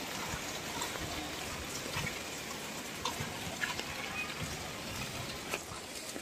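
Steady rain, an even hiss with scattered drips and light taps.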